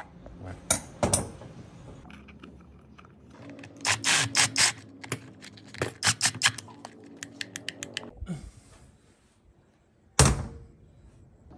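Hand work on metal parts: a run of sharp clicks and knocks in clusters, then one louder knock about ten seconds in.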